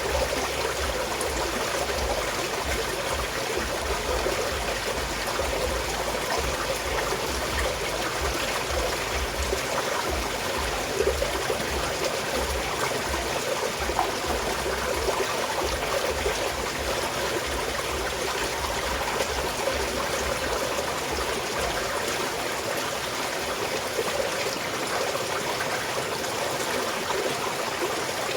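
Small mountain stream flowing steadily: a continuous trickling and babbling of running water.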